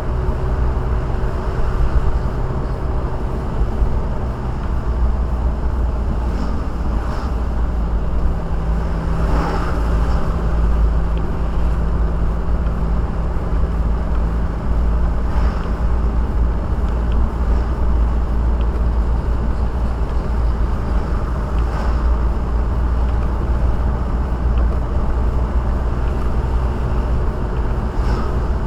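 Car driving, heard from inside the cabin: steady low engine and road rumble, with a few brief swells of noise.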